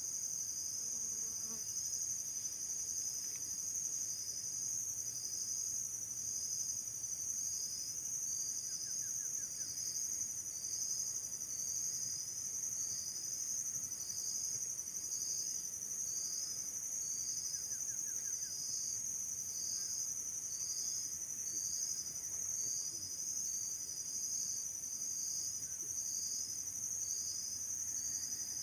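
Insects calling in a steady, high-pitched chorus, with one pulsing call repeating about once a second over a continuous trill.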